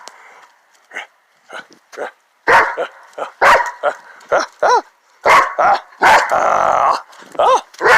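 Dog barking and yipping in a quick series of sharp calls, starting about two and a half seconds in, with a hoarse, noisy stretch of about a second near the end.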